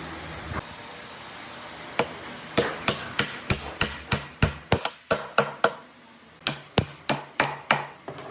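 Repeated hammer blows on a woodworking job: one knock, then a run of sharp, evenly spaced strikes about three a second, a brief pause, and a second run. A steady machine hum stops about half a second in.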